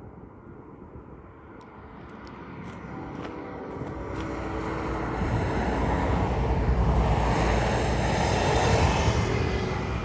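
Diesel-electric freight locomotives climbing a steep grade under heavy load. Their engine drone and low rumble grow steadily louder as they approach and are loudest near the end.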